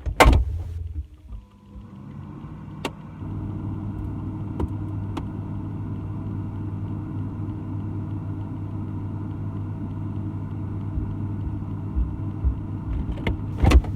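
A refrigerator running: a steady motor hum heard from inside the closed fridge. There is a knock at the very start and a few knocks near the end.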